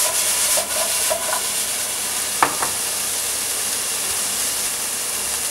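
Lardons, onion, pepper and courgette sizzling in a frying pan, tossed and then stirred with a wooden spoon. Two sharp knocks stand out about two and a half seconds in.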